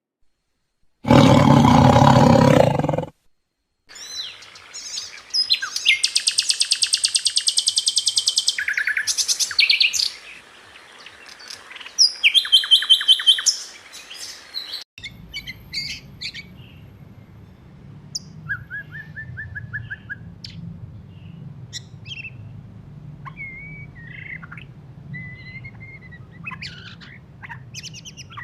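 A white-rumped shama singing rough, rapid chattering trills of high repeated notes, then from about halfway on scattered short phrases and whistles over a low steady hum; the rough chatter is typical of a shama just out of its molt. A loud two-second sound comes about a second in, before the birdsong.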